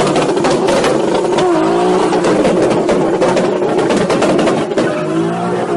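Turbocharged performance car engine revving, with a rapid crackle of exhaust pops and bangs typical of an anti-lag system. The engine pitch swings up and down a couple of times.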